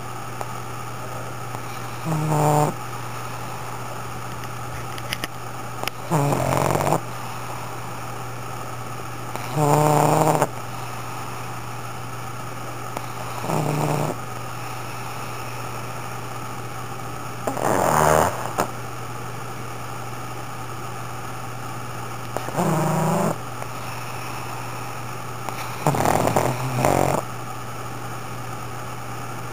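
A pug snoring loudly in its sleep: seven rough, rasping snores about four seconds apart, each lasting about half a second to a second, over a steady low hum.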